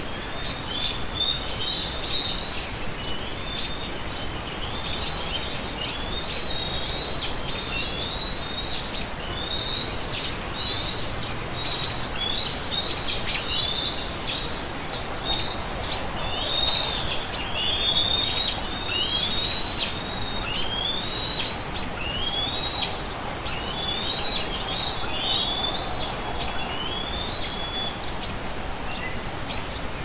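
Runs of short, high, downward-slurred bird calls, several a second, thinning out near the end, over a steady outdoor hiss.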